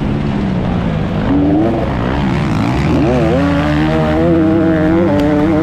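A motor vehicle engine revving. Its pitch rises about a second and a half in, dips, then climbs again around three seconds in and holds high and steady over a low rumble.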